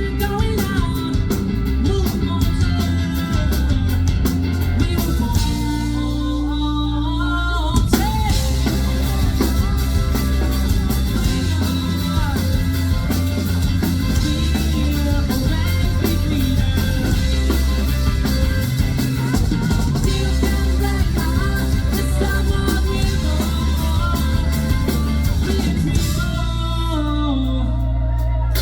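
A rock band playing live with a singer, over drums, bass and guitar. About five seconds in the band thins out to a held low note, and it crashes back in full about eight seconds in.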